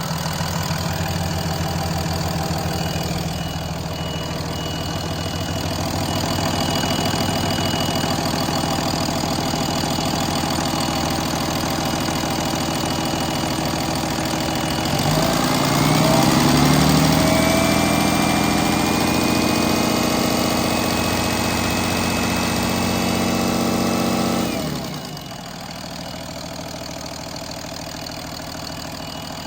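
2014 Cummins ISB 6.7-litre inline-six turbo diesel running at idle, revved up about halfway through and held for several seconds with a high whine rising alongside, then dropped back to a quieter, steady idle.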